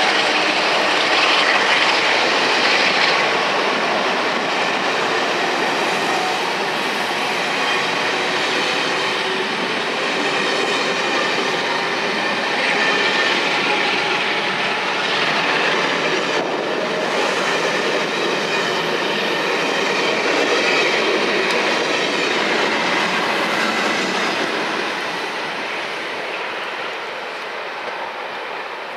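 Passenger coaches of a charter train rolling past close by, with steady wheel and rail noise. The noise fades away over the last few seconds as the train departs.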